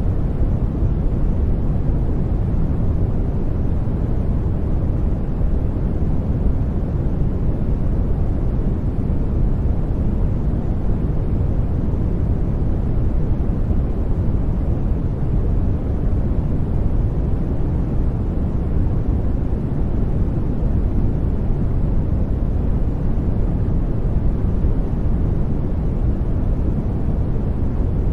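Steady sleep-noise track of deep, even hiss and rumble that does not change. Most of its weight is in the low end, like brown noise.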